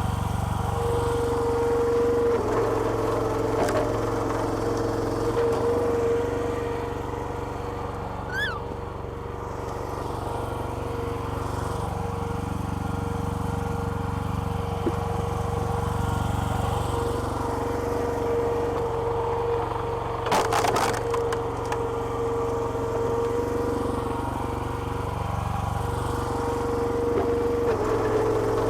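Small petrol engine running a homemade hydraulic log splitter, with a steady whine over the drone and the engine note changing every few seconds as the ram works. A short cluster of sharp cracks about twenty seconds in, as wood splits.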